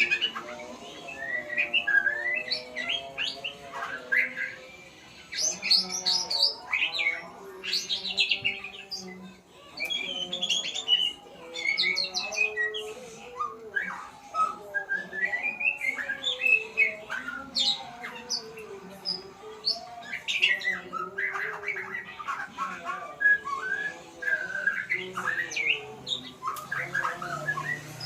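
A murai songbird singing a continuous, varied stream of quick chirps, whistles and harsh notes, with lower warbling tones running underneath.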